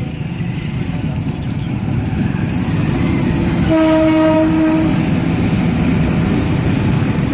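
Train approaching with a rumble of wheels on the track that grows louder. Its horn sounds once, one steady blast of about a second, a little over a third of the way in.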